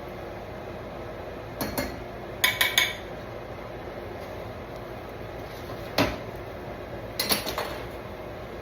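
Kitchen utensils clattering against pans and dishes in several short bursts, one of them ringing briefly, over a steady background hum.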